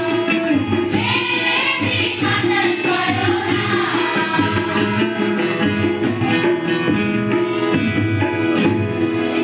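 Hindi children's action song sung with instrumental accompaniment over a steady beat.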